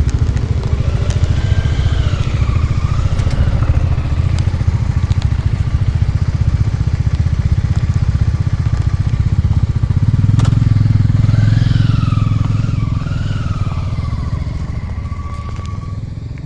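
A vehicle engine running with a steady low rumble, its revs rising and falling a few times. The engine note is loudest about ten seconds in and eases off near the end.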